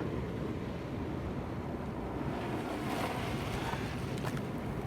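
Sea waves washing against shore rocks, a steady rush that swells a little about three seconds in, with wind on the microphone.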